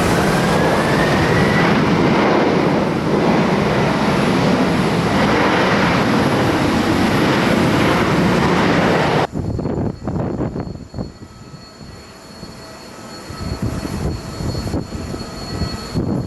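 Jet airliner passing close, its engines loud, with a faint rising whine in the first two seconds. About nine seconds in the sound cuts off suddenly to a much quieter, uneven rumble of distant jet noise.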